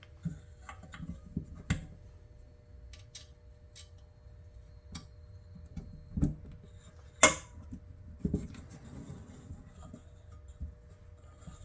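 Small screws being worked out of a metal clock case with a screwdriver: scattered light clicks and metallic taps, the sharpest click about seven seconds in. A faint steady hum sits underneath.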